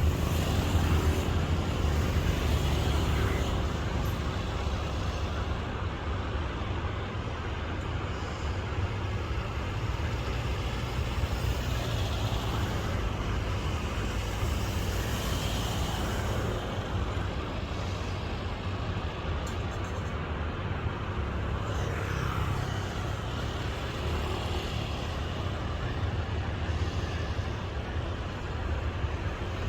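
Kiha 183 diesel multiple unit running, a steady low rumble with a haze of mechanical noise over it.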